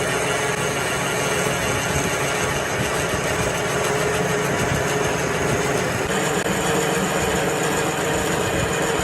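A machine running steadily with a constant hum, its tone shifting slightly about six seconds in.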